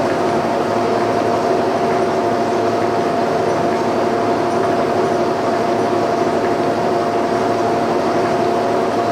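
Line-boring machine running steadily, its drive turning the boring bar through a finish pass in a worn steel suspension-frame bore: an even mechanical drone with a steady whine over it.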